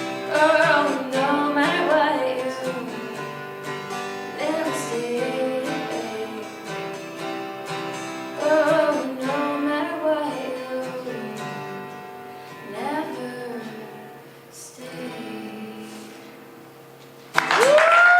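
A woman sings the closing phrases of a song over acoustic guitar, the sound fading gradually as the song ends. Near the end, audience cheering and whooping break out suddenly as applause begins.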